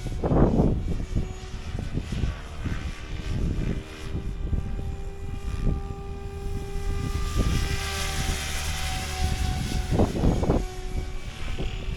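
Electric RC helicopter in flight, its motor and rotor making a steady whine. Wind buffets the microphone in gusts near the start and again about ten seconds in.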